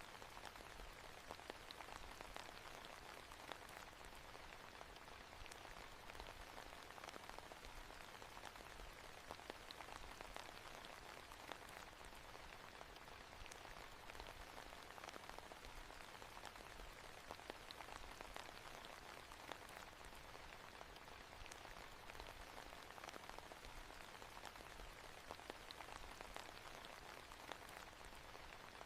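Faint, steady rain falling on a surface, with many small drops ticking.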